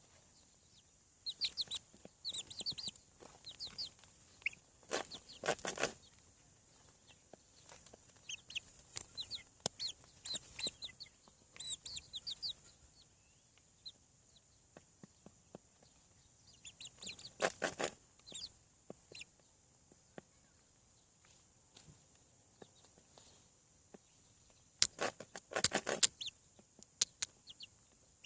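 Seven-week-old chickens peeping in many short high chirps, with three louder bouts of clucking: about five seconds in, about two-thirds through, and near the end.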